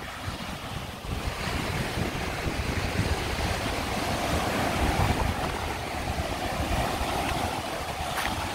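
Ocean surf breaking and washing up the shore, swelling about a second in and loudest midway, with wind rumbling on the microphone.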